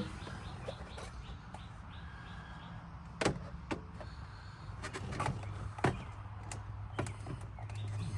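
Plastic dash trim clips clicking and snapping as the control-panel bezel is pried loose by hand: about half a dozen sharp clicks over the second half. A low steady hum runs underneath from about five seconds in.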